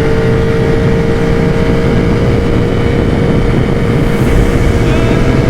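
Yamaha R1 sport bike's inline-four engine running at a steady cruise, its note holding nearly level, with heavy wind rumble on the microphone.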